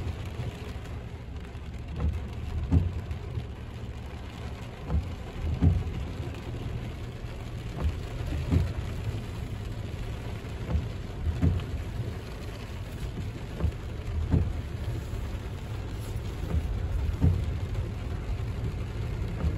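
Heavy rain beating on a car's roof and windshield, heard from inside the car as a steady rushing noise. A short low thump recurs about every second and a half.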